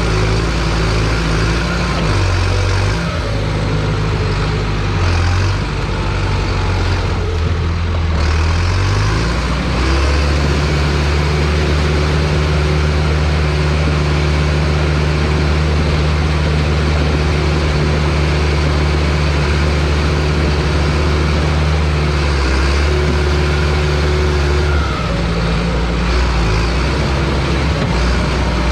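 John Deere bulldozer's diesel engine working under load, its pitch wavering at first, rising about eight to ten seconds in, then holding steady before shifting again near the end.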